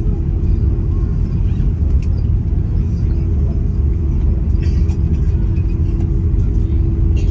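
Steady low rumble of engine and airflow noise inside an Airbus A330 airliner cabin, with a faint steady hum and a few light ticks.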